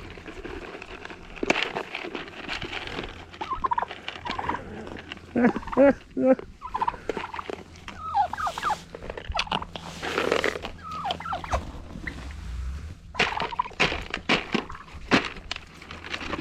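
Domestic turkeys gobbling and calling repeatedly, mixed with short clicks and breathy noises from the animals crowding in to feed.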